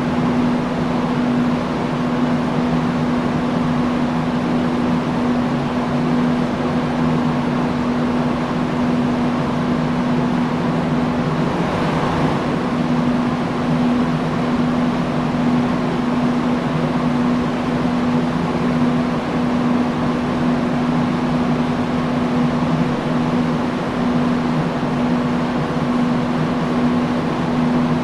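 Industrial fan running steadily: a rushing whoosh of air with a constant low motor hum.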